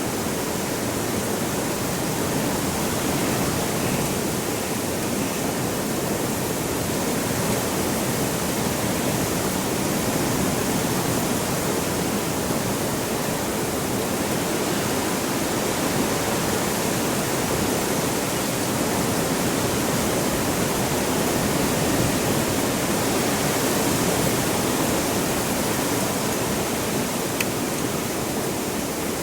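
Heavy wind blowing as a steady, even rush of noise.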